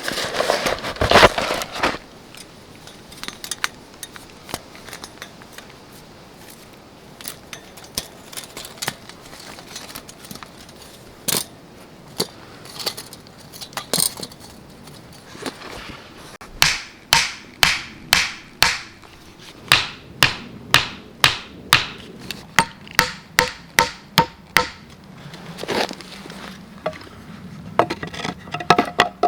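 A run of sharp knocks, about two a second for some eight seconds, a few with a short metallic ring, after scattered lighter clicks and taps.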